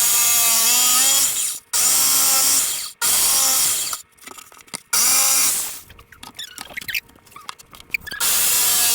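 Handheld power tool working wood in five short bursts of about a second each, separated by brief pauses. Each burst dips briefly in pitch as it starts, then runs steady.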